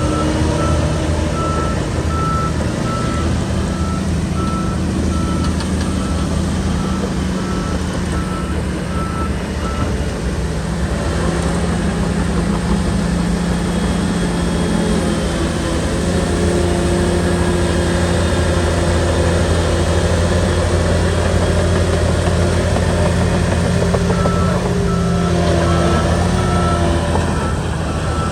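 Diesel engine of a Shantui crawler bulldozer working steadily, its pitch shifting as the load changes. The reversing alarm beeps steadily through the first third and starts again near the end as the machine backs up.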